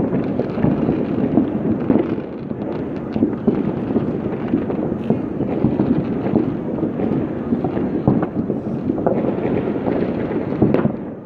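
Many fireworks going off at once at a distance: a continuous dense rumble of overlapping bangs and pops, with a couple of sharper cracks near the end.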